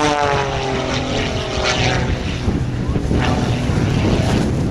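Extra 300S aerobatic plane's engine and propeller droning overhead, its pitch falling over the first second or so as it passes, then holding steady.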